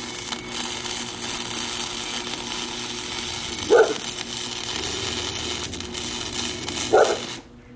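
Welding arc crackling and hissing steadily while a rebar joint is welded, cutting off suddenly near the end. A dog barks loudly twice over it, about four seconds in and again just before the arc stops.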